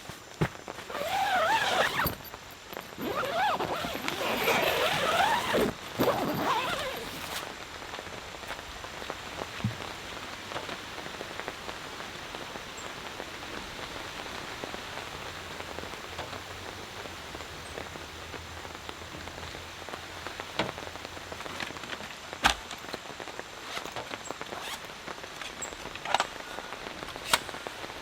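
Steady rain falling, with a few sharper drop taps near the end. Over the first several seconds a louder warbling sound rises and falls above the rain.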